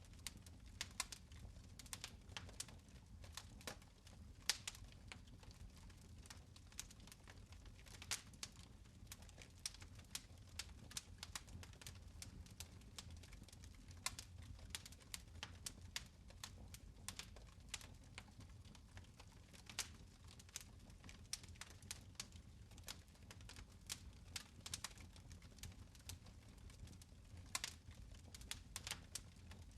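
Fire in a fireplace crackling and popping: many irregular sharp snaps, several a second, over a steady low rumble.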